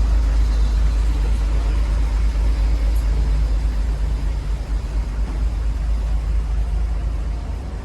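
Deep, steady rumble of large vehicle engines idling, fading slightly near the end.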